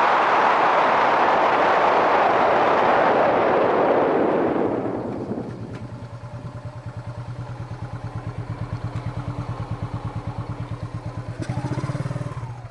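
Wind rushing over a helmet-mounted microphone as a Yamaha SRX400 rides, fading as the bike slows to a stop about four and a half seconds in. The single-cylinder four-stroke engine then idles with an even, pulsing beat, with a click and a brief rev near the end.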